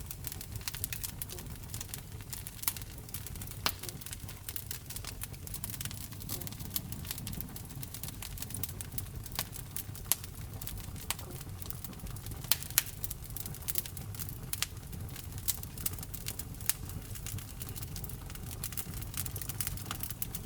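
Wood fire burning in a fireplace: a steady stream of crackles and snapping pops over a low rumble of the flames, with a few louder pops.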